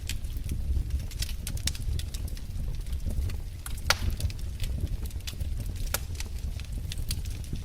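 Wood fire crackling: irregular sharp pops and snaps over a low, steady rumble, with one louder pop about four seconds in.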